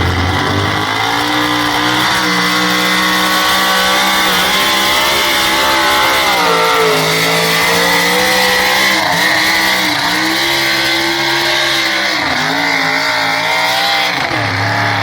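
Big-block Ford engine of a pulling vehicle running at full throttle under load down the track. Its pitch sags and picks back up several times as the load changes.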